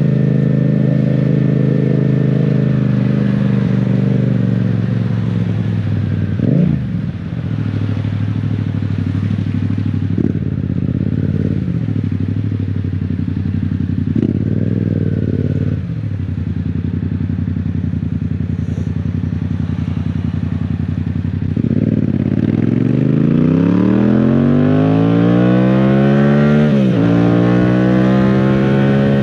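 Motorcycle's 689 cc parallel-twin engine heard on board while riding. It runs steadily with a few brief throttle blips, then accelerates hard near the end, rising in pitch, with one quick gear change.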